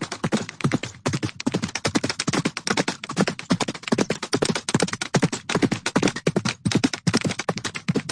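Horse hooves galloping: a rapid, continuous run of hoofbeats, several a second, broken by a couple of very short gaps.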